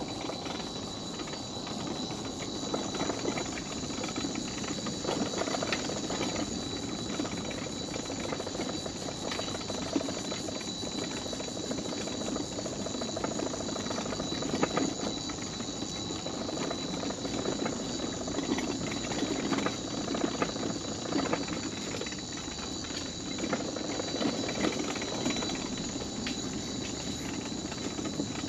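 Mobility scooter rolling along a wooden boardwalk, its wheels rumbling and clicking steadily over the planks, with a steady high tone running above.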